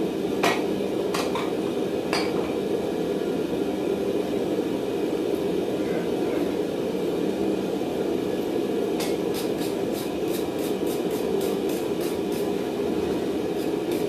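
A few light hammer strikes on steel in the first two seconds, then a run of faint quick ticks, about three or four a second, from about nine seconds in. A steady low rushing noise runs underneath throughout.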